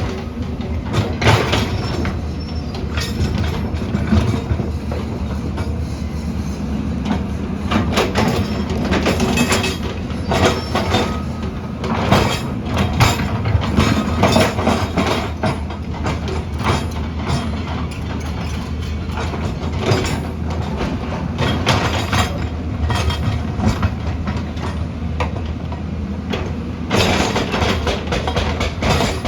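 Diesel engine of a tracked earthmoving machine running steadily, with steel crawler tracks clanking and rattling irregularly over it.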